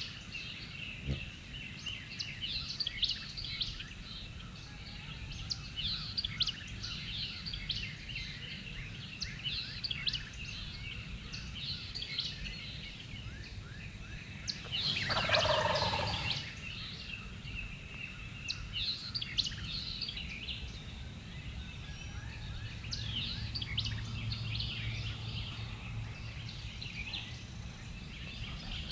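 Wild turkey gobbling once about halfway through, a loud rattling call that falls in pitch, over many small birds chirping.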